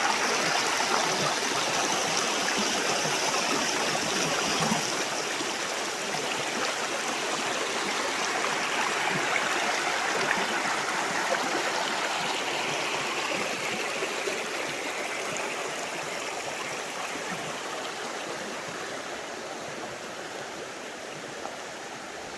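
Creek water rushing steadily, growing gradually fainter.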